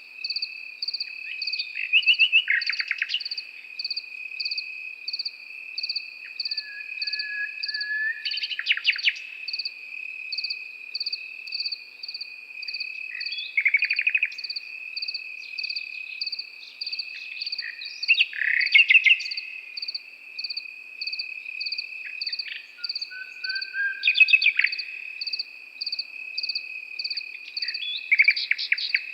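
Nightingale singing short phrases of fast repeated notes, some with a lower drawn-out whistle, one phrase every five seconds or so. Behind it crickets call without a break: one a steady high trill, another chirping a little over once a second.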